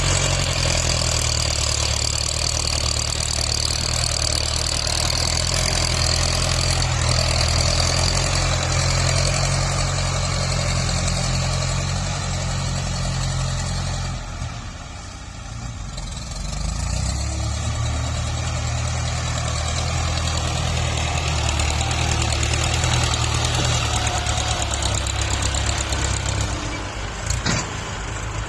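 Diesel tractor engine running steadily while grading soil. It drops in level for a few seconds about halfway through, then comes back up.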